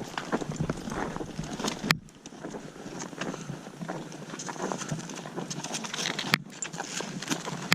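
Footsteps crunching through snow, with steady clothing and gear rustle and a few sharp knocks.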